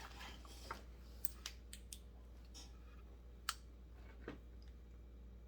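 Faint, scattered clicks and light taps of hands handling the parts of a Husqvarna 55 chainsaw, with the engine not running; the sharpest tap comes about three and a half seconds in.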